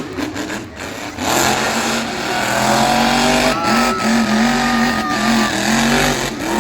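Monster truck engine running loud, its pitch rising and dipping several times as the throttle is blipped, with a thin whine about halfway through.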